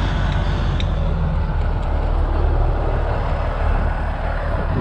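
Steady low rumble of a large road vehicle's engine running close by, mixed with road noise.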